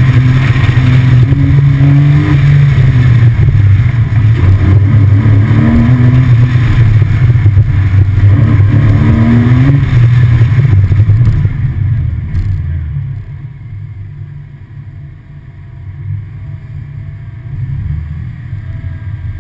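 Porsche 911 Carrera 4S flat-six engine under hard throttle through an autocross course, its pitch climbing and falling with throttle and gear changes. About twelve seconds in it drops away to a much quieter low rumble as the car comes off the throttle and slows.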